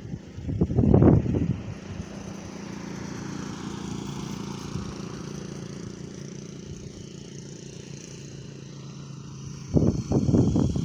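An engine running steadily in the background, with two louder, rougher stretches of sound about a second in and near the end.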